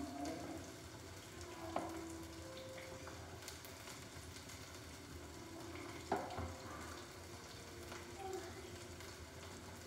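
Panko-breaded pork pieces sizzling and crackling in oil in a small nonstick frying pan. There are two sharp clicks, one about two seconds in and one about six seconds in.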